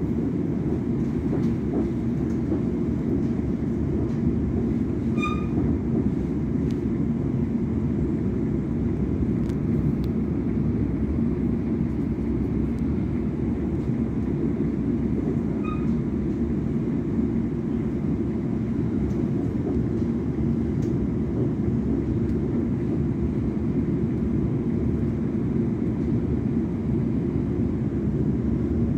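Electric passenger train running at speed, heard from inside the carriage: a steady low rumble of wheels and motors. Two brief high squeaks come about five and sixteen seconds in.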